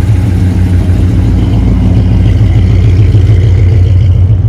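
A car engine running, a loud steady low rumble.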